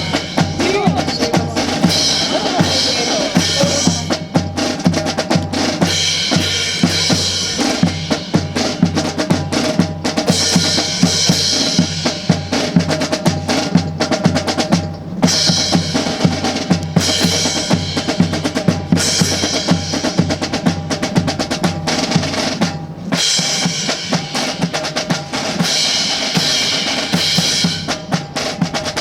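Marching band drums playing a steady cadence of snare and bass drum beats, with cymbal-like crashes coming every couple of seconds.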